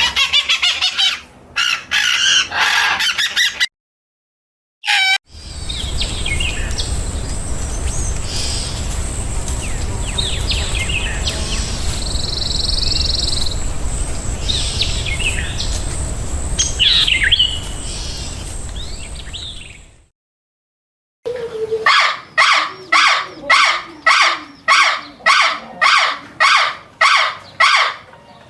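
Birds calling in several spliced outdoor clips, cut off by short silences: quick repeated calls, then outdoor ambience with a low wind rumble, a steady high whine and scattered chirps, then a loud call repeated about twice a second near the end.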